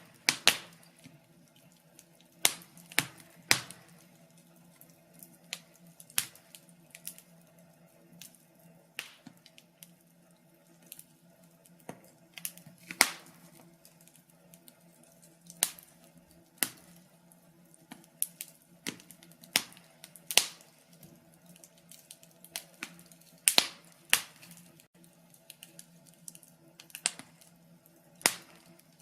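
Wood fire crackling in a fireplace: irregular sharp pops and snaps from the burning logs, some close together and some well apart, over a faint steady low hum.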